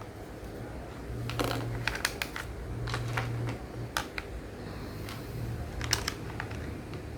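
Irregular sharp clicks and taps of small hard parts being handled and fitted together while building a small toy dump truck, with a few quick clusters of clicks. A low hum comes and goes underneath.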